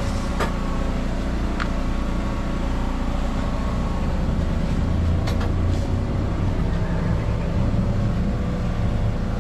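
A steady low engine rumble, with a few light clicks over it.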